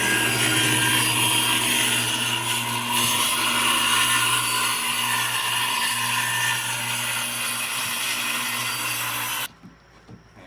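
Electric power saw running and cutting through wood for about nine and a half seconds, then stopping suddenly.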